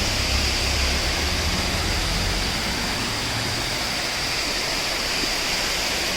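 Waterfall: a steady rush of falling water, with a low rumble underneath for the first two seconds or so.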